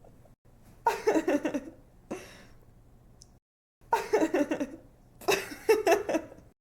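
A young woman laughing in bouts of quick, breathy giggles, three bouts with short pauses between them, stopping suddenly just before the end.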